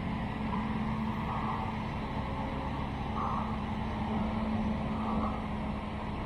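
Construction machine's engine running steadily, with a hissing white-noise reversing alarm pulsing roughly once a second.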